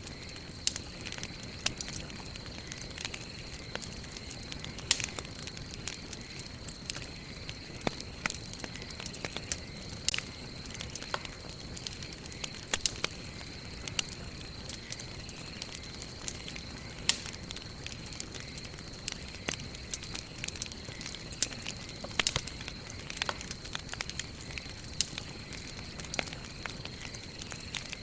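Wood fire crackling: irregular sharp pops and snaps, several a second, some louder than others, over a low steady rush of burning. A thin steady high tone runs underneath.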